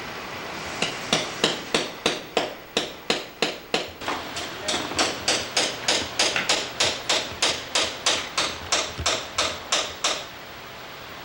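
Hammer striking steadily, about three blows a second, with a brief pause partway through; each blow rings sharply.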